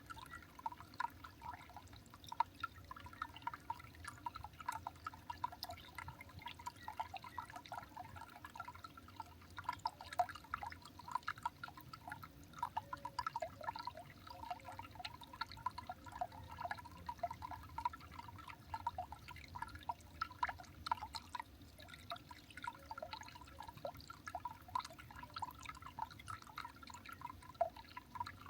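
Water dripping: a dense, irregular patter of small plinks that keeps up steadily.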